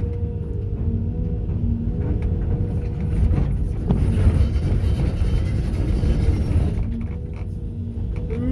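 Heavy diesel machinery running steadily with a low rumble and a steady whine. A louder stretch of scraping and clatter comes in the middle.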